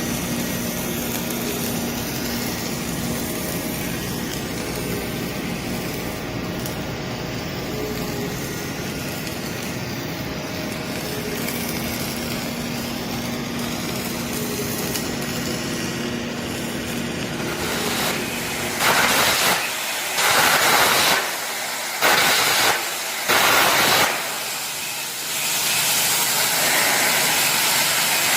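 Steady industrial machinery noise, then, about two-thirds of the way in, a series of short, loud hissing bursts about a second long each, with gaps between.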